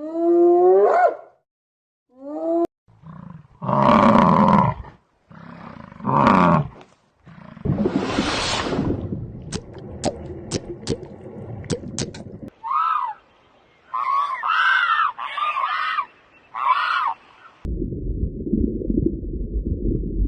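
A string of different animal calls edited back to back: a drawn-out meow-like cry at the start, then louder roar-like calls, a noisy stretch with sharp clicks, several short high calls, and a low rumbling noise near the end.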